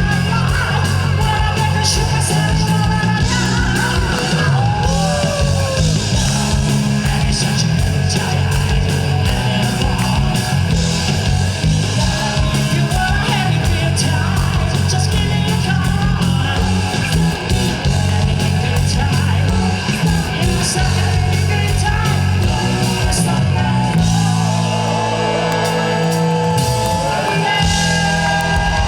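Live rock band playing loud: bass and drums with electric guitar lines that bend in pitch, and vocals over the top at times.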